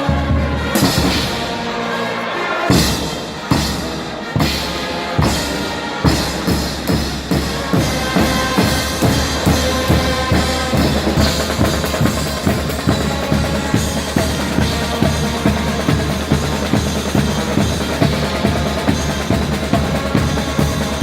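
Guggenmusik carnival band playing brass and drums. The first few seconds are a handful of separate accented hits with short gaps; from about six seconds in, a steady beat of about two strokes a second on bass drum and snare runs under the brass.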